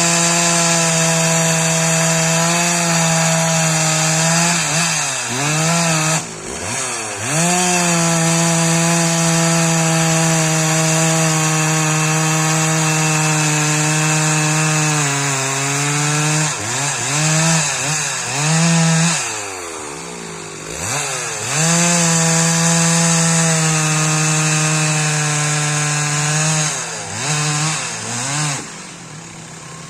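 Stihl 064 two-stroke chainsaw held at full throttle through three long cuts, its engine dropping back and revving up again between them.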